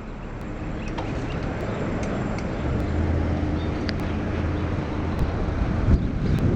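Street traffic: a motor vehicle's engine hum rises and holds steady for a few seconds in the middle, over road noise.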